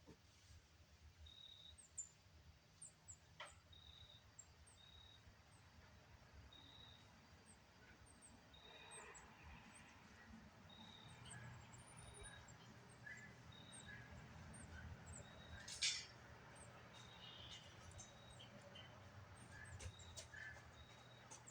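Near silence with faint bird chirps: short high calls repeating every second or so over a low rumble. One brief sharp knock about 16 seconds in.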